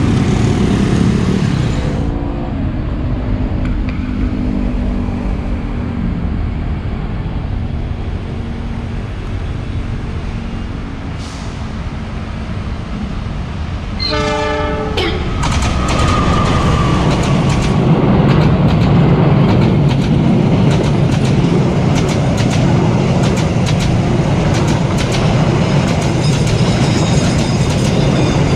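Passing motorbike traffic at the start, then the Argo Cheribon passenger train approaching with a steady rumble. About fourteen seconds in, its locomotive sounds a horn once for about a second, and the train passes close by with loud rumble and rapid repeated wheel clacks over the rail joints.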